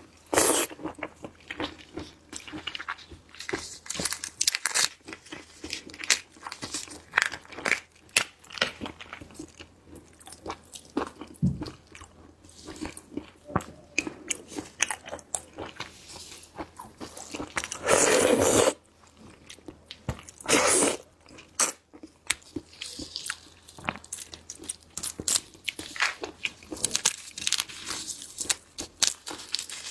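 Close-miked eating of seafood: a steady run of sharp crunches, bites and chewing. There is a longer, louder crunching burst about 18 seconds in and a shorter one about 21 seconds in.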